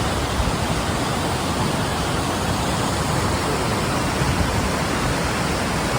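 Waterfall's steady rush of falling water, an even roar of white-water noise with no breaks.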